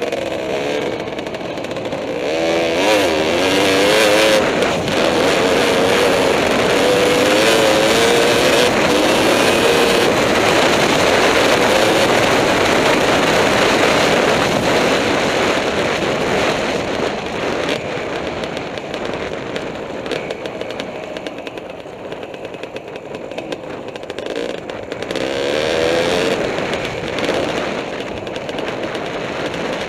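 Kawasaki KDX 220R two-stroke single-cylinder dirt bike engine revving under load, its pitch wavering. It climbs a few seconds in and holds high for about ten seconds, then eases off before revving up again near the end.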